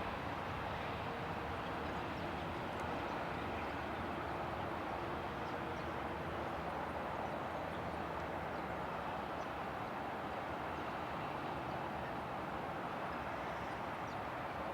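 Steady, even noise of distant jet aircraft engines running across the airfield.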